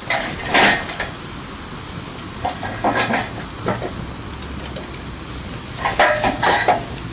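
Wood campfire burning: a steady hiss with clusters of sharp crackles and pops, loudest just under a second in and again around six seconds in.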